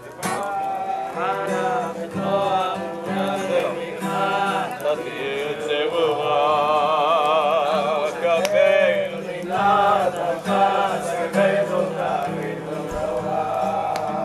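A voice singing a slow, chant-like melody with strong vibrato over a steady instrumental accompaniment.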